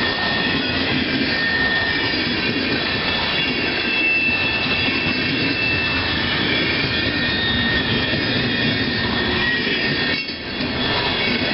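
CN freight train of boxcars rolling past close by: the steady noise of steel wheels running on the rails, with thin, high, drawn-out tones, typical of wheel squeal, over it. The noise dips briefly about ten seconds in.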